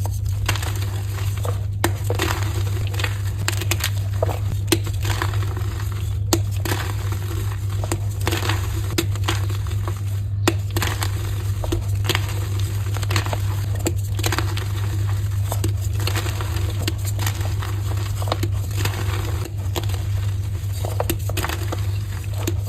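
Dyed soft gym chalk being crushed: a continuous run of irregular crisp crunches and crumbles. A steady low hum runs underneath.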